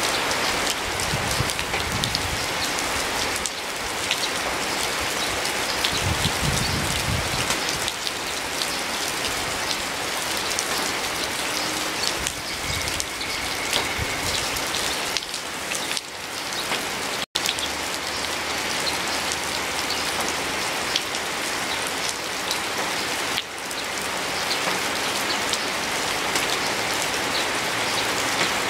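Steady rain falling, with many separate drops ticking through the hiss. The sound cuts out for an instant a little past halfway through, then resumes.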